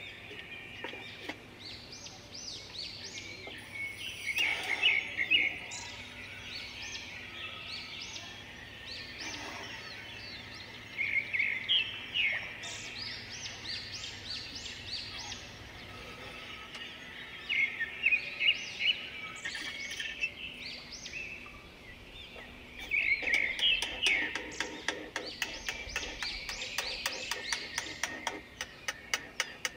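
Small songbirds singing, repeated bursts of quick high chirps and trills. A run of fast, even clicks comes in near the end.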